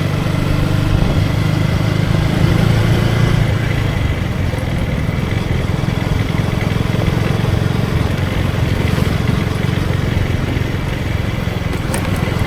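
KTM Duke 250 single-cylinder engine running steadily under way, with wind and road noise.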